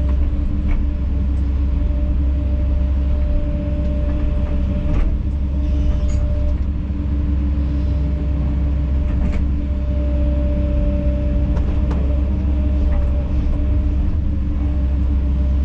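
Kobelco SK210 excavator's diesel engine running steadily under work, with a few scattered clunks and knocks from the machine as it digs and pulls dirt.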